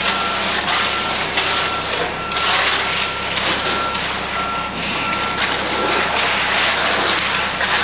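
Concrete mixer truck backing up: its reversing alarm sounds a single-pitched beep repeated a little faster than once a second, over the steady noise of the truck's running engine.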